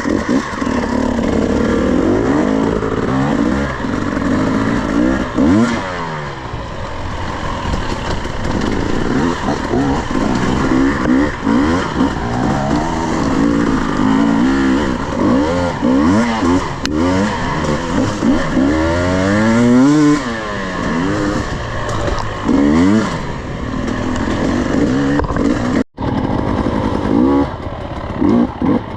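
Off-road dirt bike engine being ridden on a trail, its revs rising and falling again and again as the rider works the throttle. A very brief cut to near silence near the end.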